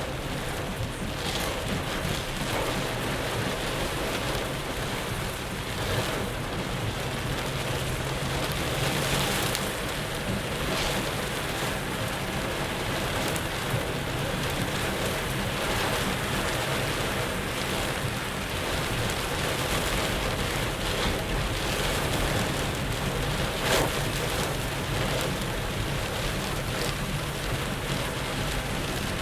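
Heavy rain falling steadily on a moving car, heard from inside, over a steady low hum of engine and road noise.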